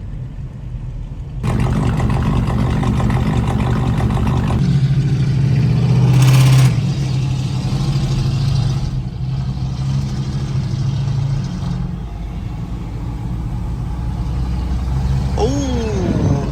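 Car engine and road noise while driving. It gets louder about a second and a half in, is loudest around six seconds, then settles to a steady run.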